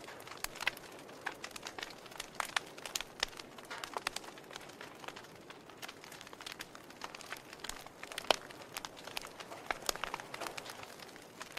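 Log fire crackling: irregular sharp pops and snaps over a soft hiss, with one louder pop a little past the middle.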